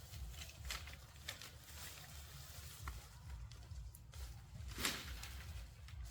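Faint scattered rustles and light ticks over a low rumble, with one louder rustle about five seconds in.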